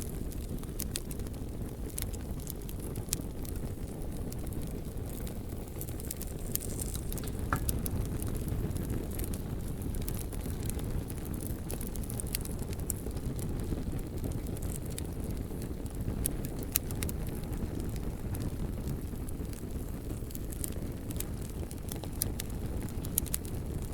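Wood campfire crackling, with frequent sharp pops and snaps at irregular moments over a steady low rushing noise.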